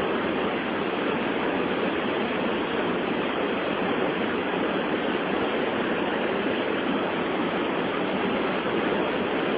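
Steady rush of water pouring over the rapids of the Cachoeira de Santo Antônio on the Madeira River, an even roar with no break.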